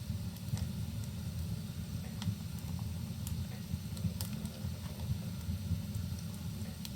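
Wood fire crackling in a fireplace: sharp, irregular pops and snaps over a steady low rumble of fire and rain.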